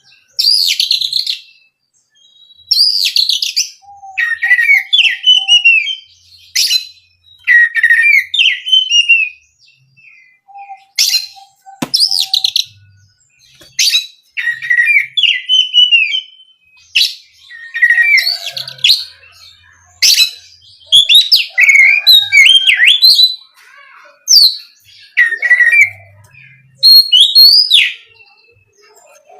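Oriental magpie-robin (kacer) singing loud, varied phrases of clear whistles, slurred glides and quick chirps. Each phrase lasts about one to two seconds, with short pauses between them.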